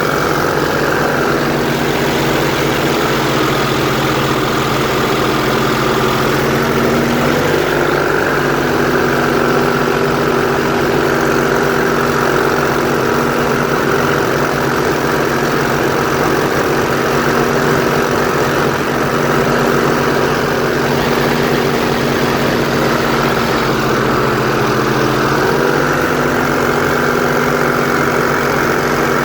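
Airboat engine and propeller running steadily, loud and droning, with the pitch shifting slightly a couple of times as the engine speed changes.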